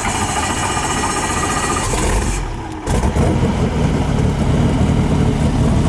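Helicopter running: a steady turbine whine with engine and rotor noise. About three seconds in, the sound shifts abruptly from high whining tones to a lower, steady hum.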